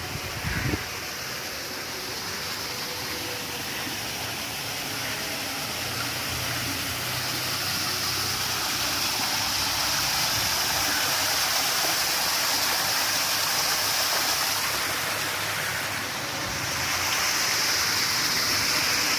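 Steady rushing noise, like flowing water or wind, growing a little louder midway, with a couple of short knocks near the start.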